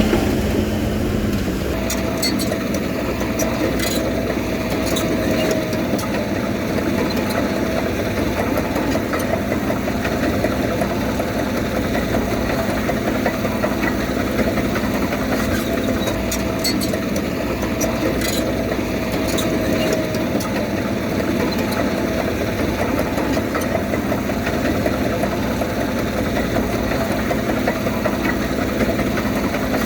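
Diesel engine of a Komatsu D31P bulldozer running steadily, with scattered clicks and rattles over it.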